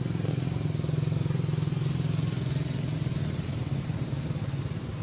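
An engine running steadily with a low, even throb, a little louder in the first half and easing off toward the end.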